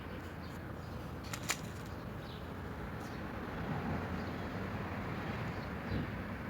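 Steady outdoor background noise, with two sharp clicks about a second and a half in and a few faint, high, short chirps.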